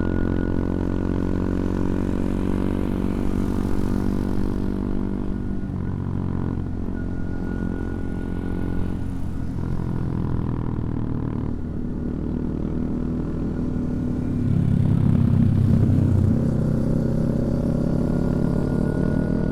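CFMoto Papio XO-1 minibike's 125 cc single-cylinder engine running under way. The engine note changes about six seconds in, gets louder with more throttle around fifteen seconds in, and its revs climb near the end.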